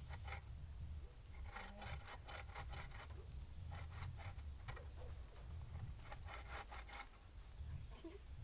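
Hand saw cutting wood in short runs of quick strokes, one run about a second and a half in and another around six seconds in.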